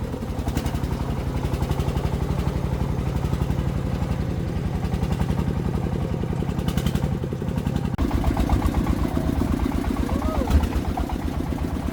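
Single-cylinder diesel engine of a công nông agricultural truck running, with rapid, even firing pulses. The sound changes abruptly about eight seconds in.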